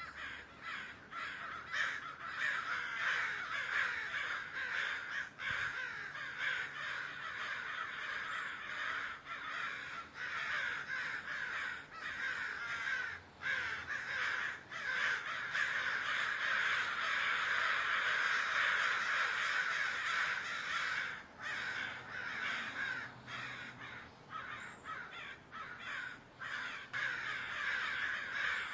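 A large flock of crows cawing continuously, many calls overlapping into a dense chorus that swells loudest a little past the middle.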